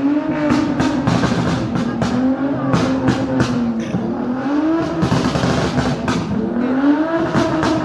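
Modified car engine held at high revs, its pitch rising and falling several times, with rapid sharp pops and crackles from the exhaust.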